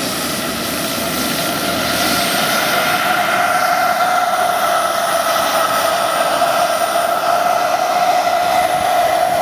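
Jetcat PHT 3 turbine of a Sikorsky S-76 scale model helicopter running with a steady whine, getting louder about two to three seconds in.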